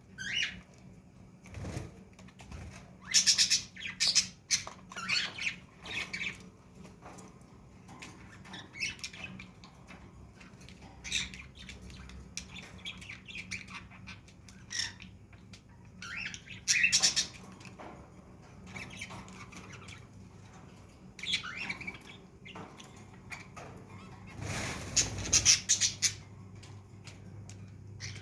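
Caged pet birds calling in short, sharp squawks and chirps, on and off, with a longer noisy flurry about 25 seconds in.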